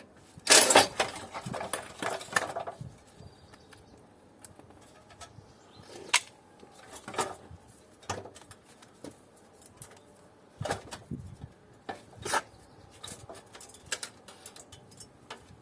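Metal parts of an air conditioner being handled during disassembly, clinking and clattering: a loud clatter about half a second in, then scattered clinks and knocks.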